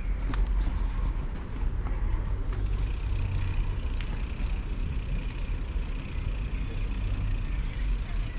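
Riding noise on an e-bike: a steady low rumble of wind and tyres on the road. A few sharp clicks come in the first couple of seconds, and a faint, steady high tone runs from about three seconds in until near the end.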